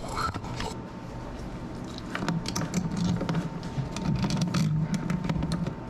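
Handling noise of an electrical outlet being worked into its wall box: a run of light clicks and scrapes, busier from about two seconds in.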